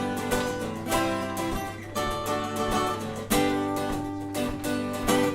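Acoustic guitar playing the song's introduction, strummed chords sounding about once a second with no singing yet.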